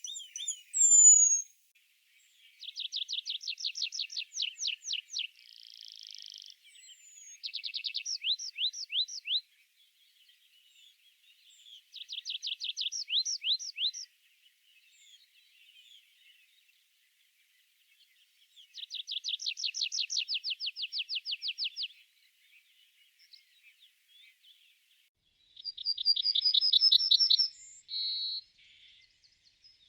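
A songbird singing: five trilled phrases of rapid, repeated downward-sweeping notes, each two to three seconds long with pauses between. A couple of high descending whistles come right at the start.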